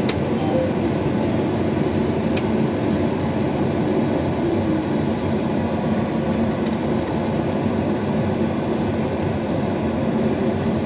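John Deere combine running steadily during wheat harvest, a constant low mechanical drone, with a couple of faint clicks at the start and about two seconds in.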